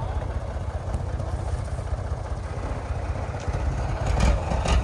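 Heavy truck engine running with a steady low rumble, growing louder near the end, with a few short knocks.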